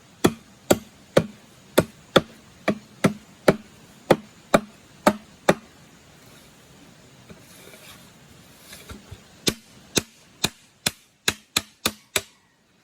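Repeated chopping blows, about two a second, a dozen in a row. After a pause of a few seconds comes a second, quicker run of strikes near the end.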